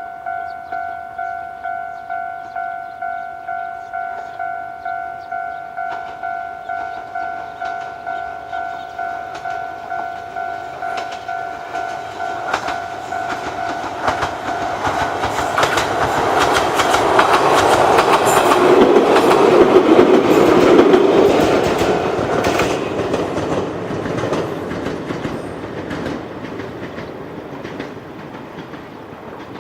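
A Japanese level-crossing warning bell rings with an even repeating ding, about one and a half a second, while an Ichibata Electric Railway 2100 series electric train comes up, passes with its wheels clacking over rail joints, and moves away. The bell stops soon after the train is loudest, and the train sound fades.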